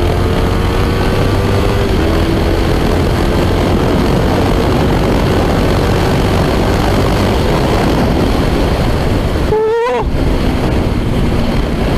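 Yamaha R3's 321 cc parallel-twin engine, breathing through a full Akrapovic exhaust, pulling under acceleration with wind rush over it. The engine note climbs for about two seconds, and the steady wind noise then dominates. About ten seconds in there is a brief break, after which the engine runs on at a lower note.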